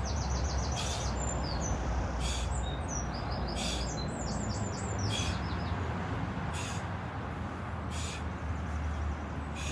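Small songbird chirping in quick series of short high notes, twice, over a steady low rumble, with a short high rasp about once a second.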